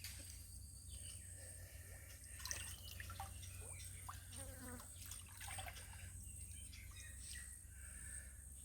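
Faint creek-side sounds: small drips and splashes of water, scattered light clicks and a few short chirps in the middle, over a steady low hum.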